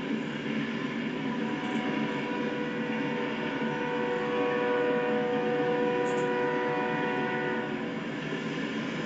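Train rolling past, a steady rumble overlaid with several thin ringing tones from the wheels and cars; one tone swells louder midway and fades again.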